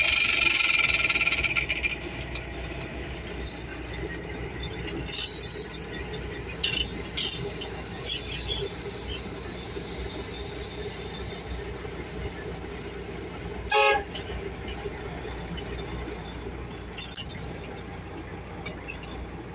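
Tractor-trailer's diesel engine running while the truck is driven, with a steady low rumble. A loud hiss comes in the first two seconds and again from about five to thirteen seconds in, and a brief pitched tone, like a short horn toot, sounds about fourteen seconds in.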